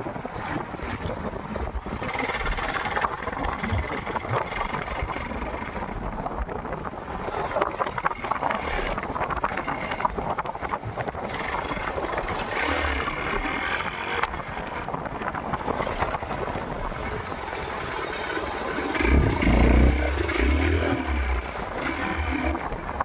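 Wind rushing over a phone microphone on a moving motorcycle, with the bike's engine running underneath; the wind buffets hard for a couple of seconds near the end. The bike is a Yamaha MT-15, a single-cylinder 155 cc motorcycle.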